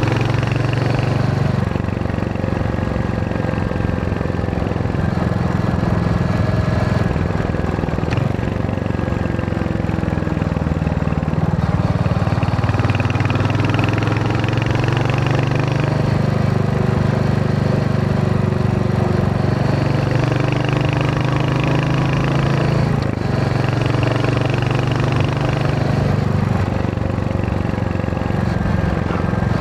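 Royal Enfield Hunter 350's single-cylinder engine and exhaust running while riding, its note rising and falling with the throttle, with a few brief dips.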